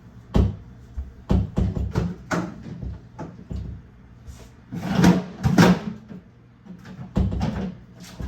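Kitchen clatter from cleaning: a string of knocks and clunks as dishes and other items are handled and cupboard doors are worked, with a louder, noisier stretch about five seconds in.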